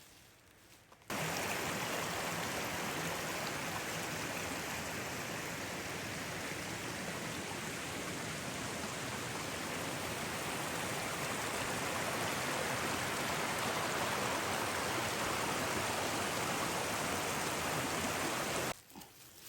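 Fast-flowing mountain water rushing steadily, loud and even. It cuts in about a second in and stops abruptly near the end.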